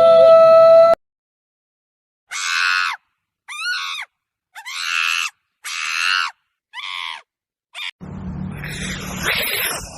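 A steady electronic tone stops abruptly about a second in. After a short silence, an animal gives six short, high calls with bending pitch, the last one very brief. Near the end a noisier, lower animal sound begins.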